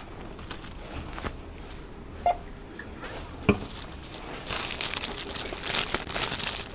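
Plastic crinkling and rustling, as when a bag or packaging is handled. It is preceded by two sharp clicks and grows busier and louder about four and a half seconds in.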